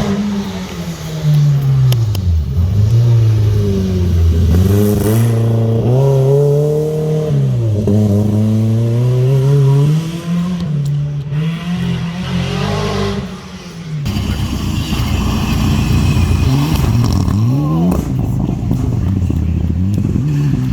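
Rally car engines under hard acceleration, the pitch climbing and dropping again and again through gear changes and lifts off the throttle. About fourteen seconds in the sound changes abruptly to another car with a rougher, less even engine note.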